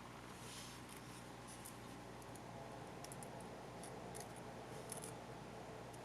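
Faint light clicks and a brief scrape of small tools and parts being handled while taking apart a compact camcorder, over a steady low hum.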